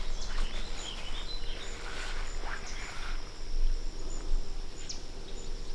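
Outdoor wetland ambience: a steady high-pitched insect drone with a few short chirping calls, over a low rumble of wind on the microphone.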